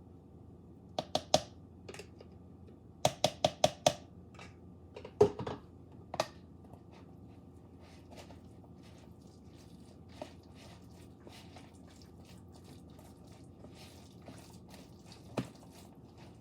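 Sharp clicks and knocks of a mayonnaise jar and kitchen utensils being handled. There are three about a second in, a quick run of five between three and four seconds, a loud knock a little after five seconds, then a few faint ticks and one more knock near the end.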